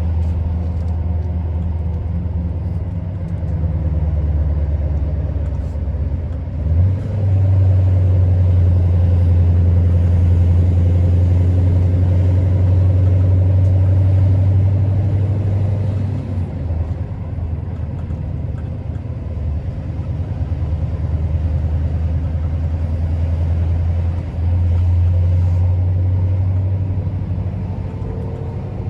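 Scania R650's 16-litre V8 diesel engine running under way with a deep, low drone. It pulls harder from about seven seconds in, eases back a little after sixteen seconds, and picks up again near twenty-four seconds.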